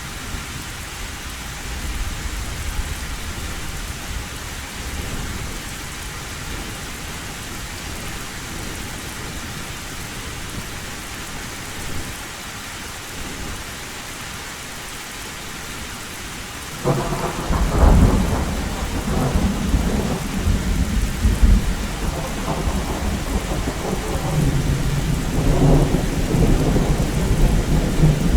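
Heavy rain pouring steadily on an old tin roof. About two thirds of the way in, thunder breaks in suddenly and keeps rumbling through the rest of the rain.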